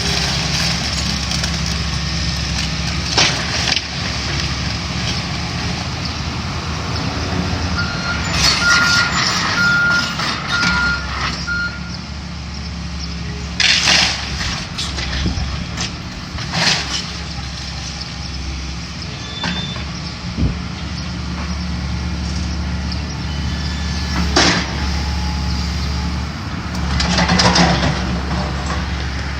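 Heavy diesel demolition machinery running steadily, with several loud crashes of building debris breaking and falling. A reversing alarm beeps about five times about a third of the way in.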